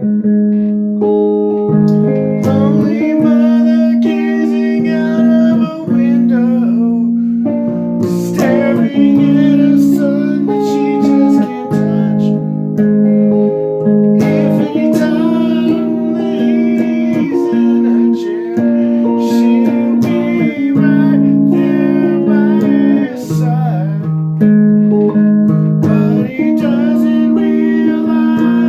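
Guitar playing a song: plucked chords and melody notes ringing over one another.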